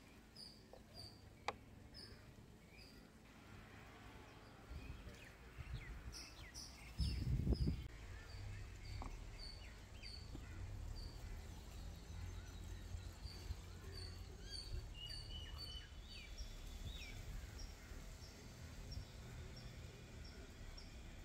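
A small bird chirping over and over, a short high chirp about twice a second, with other birds calling now and then. A low rumble sets in about five seconds in, with a brief louder low thud about seven seconds in.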